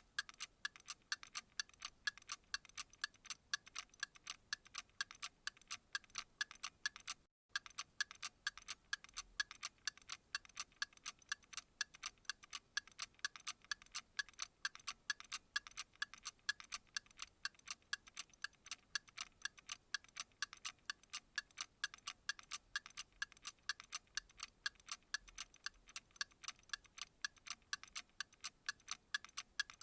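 Clock ticking at an even, steady rate: sharp, bright ticks with little low end. It breaks off for a split second about seven seconds in.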